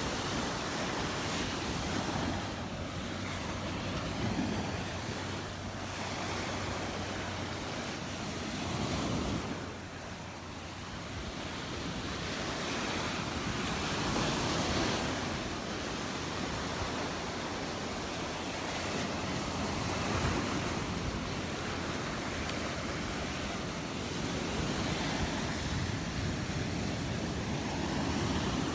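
Gulf of Mexico surf breaking on the beach, a steady wash that swells about every five seconds, with wind on the microphone.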